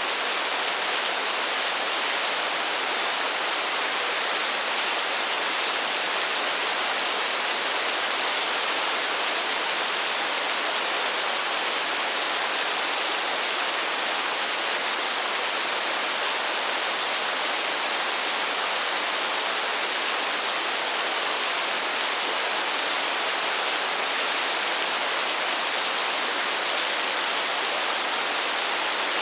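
Rain falling steadily: an even hiss that never changes, with no single drops standing out.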